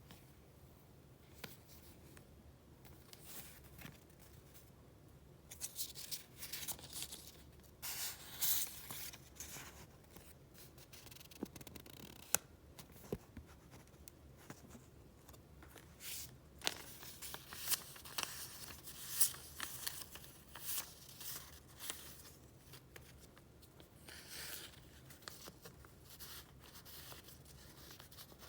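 Paper being handled: irregular rustling and crinkling with sharp clicks and snaps, coming in uneven bursts after a quiet start, as the papers of a retro paper-goods file are picked up and flipped through.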